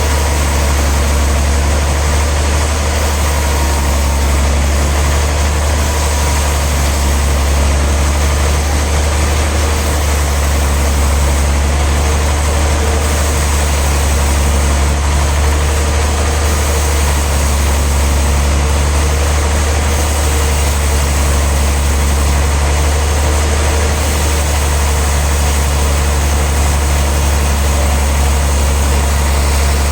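Large sawmill machinery running steadily: a deep constant hum with an even noisy wash over it, unchanging in pitch or level.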